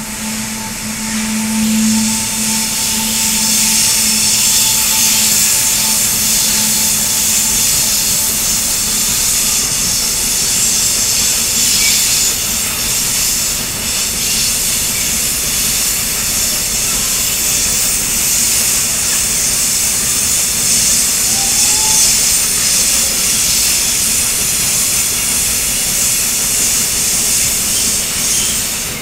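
A train passing close by: a loud, steady rushing noise with no break, with a low hum that fades out over the first several seconds.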